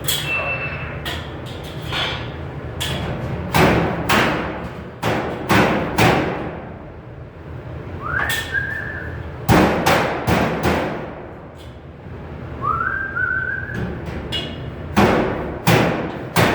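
Irregular knocks and bangs from sheet metal being worked, some with a short ring. A person whistles two short notes partway through, each sliding up and then held.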